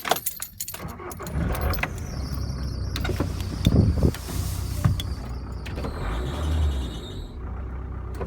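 A few clicks, then the Ford Transit 2.5 turbo diesel engine starts running about a second in and settles into a steady idle, with a few knocks over it.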